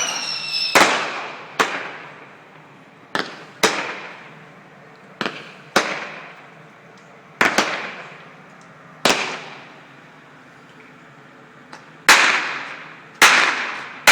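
Fireworks going off: a falling whistle ends in a bang just under a second in, followed by a string of sharp reports, mostly in pairs a half second to a second apart, each echoing away.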